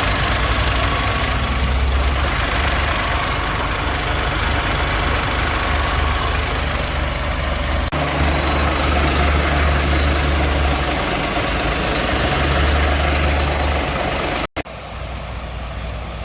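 Scania S500 truck's 13-litre straight-six diesel engine idling steadily. The sound drops out briefly near the end and comes back quieter.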